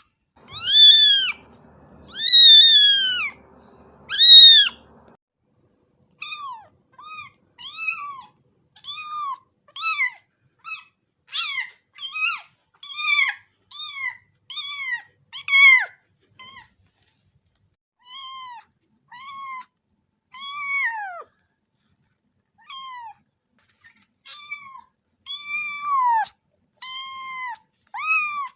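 A cat meowing over and over. Three long, loud meows come first, then a run of shorter, quieter meows about one a second, with a couple of short pauses.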